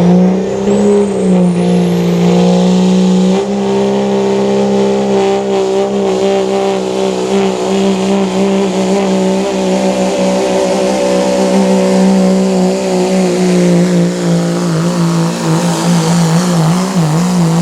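Modified pulling truck's engine held at high revs under full load down the track, its pitch nearly steady with a small step up about three seconds in and wavering near the end. A faint high whine rises over the first two seconds.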